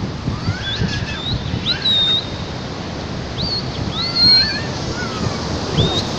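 Storm surf and wind as a steady rush, with a bird giving a string of short, thin calls that rise sharply and then level off, scattered through the stretch.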